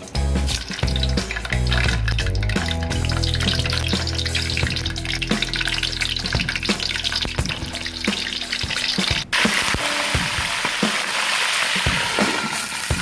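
Background music over food sizzling in a hot pan. About nine seconds in the music cuts off and the sizzling carries on alone, with scattered light ticks.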